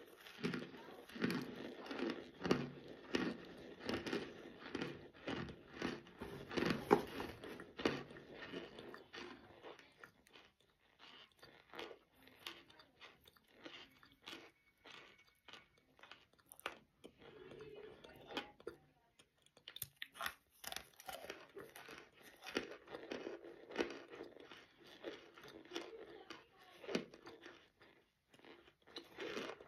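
Cornstarch being chewed: many quick crunches close to the mouth. They come thick and fast for the first several seconds, thin out in the middle, and pick up again later on.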